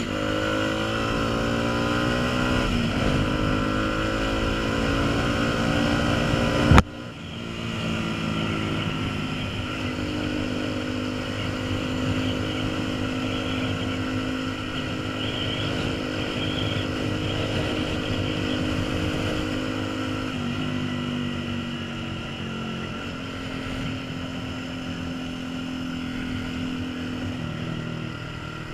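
Honda CBF125's single-cylinder four-stroke engine running under way, its pitch rising as it accelerates at first, then holding mostly steady with a few small changes later, with wind rushing over the microphone. A sharp knock about seven seconds in, after which the low wind rumble drops away.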